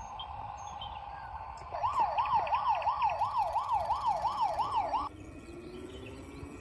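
Electronic toy siren wailing fast, its pitch swinging up and down about three times a second; it starts abruptly a couple of seconds in and cuts off suddenly after about three seconds.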